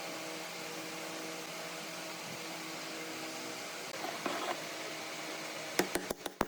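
Steady hum of a running workshop machine motor, with a few light clicks. Near the end a quick run of sharp, evenly spaced knocks begins.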